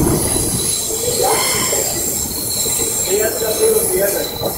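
Passenger train running along the track, heard from on board: a steady rumble of wheels on rail with a thin high squeal from the wheels above it.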